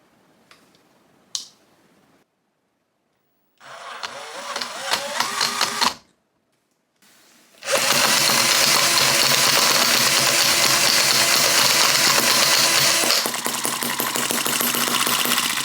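Miniature four-stroke gasoline engine being spun over with a rising whir, then, after a brief break, running steadily at speed; about five seconds later its level drops a little and it keeps running.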